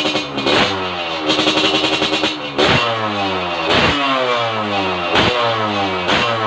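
Motorcycle engine revved through an aftermarket 'Lobster' exhaust: about five quick throttle blips, each followed by the revs falling back.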